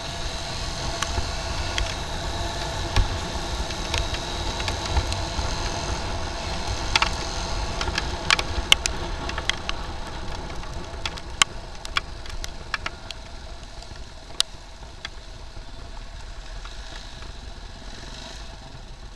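Motorcycle running in traffic, heard from the rider's seat: a steady low rumble with scattered sharp clicks and taps through the middle, easing off somewhat in the last few seconds.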